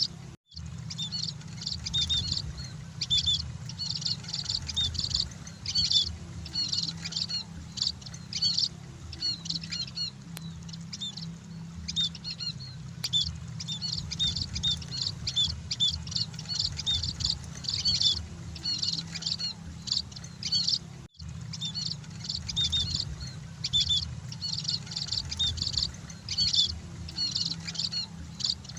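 Munias (burung emprit) chirping in quick, dense high-pitched runs, with no pause except a brief cut-out about twenty seconds in, over a steady low hum.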